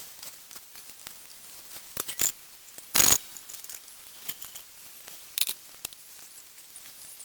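A few short, sharp clicks and knocks over a quiet background, the loudest about three seconds in.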